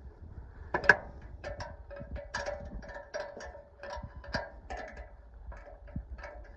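A wrench tightening jam nuts on the bolts of a steel sawmill log stop: a run of irregular metal clicks and clinks, about two a second, each with a short ring.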